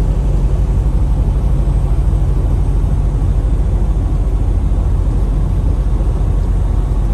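Semi-truck engine and road noise while driving at highway speed: a steady low rumble.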